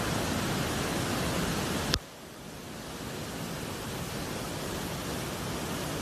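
Steady rushing noise, with no tone or rhythm in it. About two seconds in it cuts off with a sharp click, then comes back quieter and slowly builds up again.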